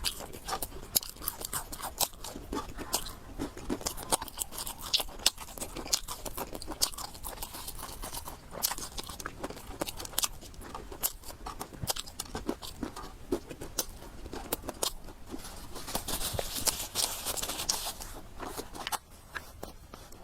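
Close-miked eating sounds: steady chewing and crunching with many sharp wet mouth clicks. About sixteen seconds in, a hissing rush of noise lasts about two seconds.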